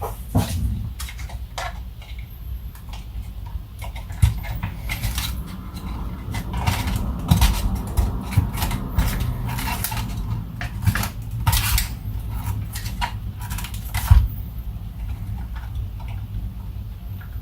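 Hands working on small parts at close range: irregular clicks, taps and scrapes, busiest in the middle, over a steady low hum.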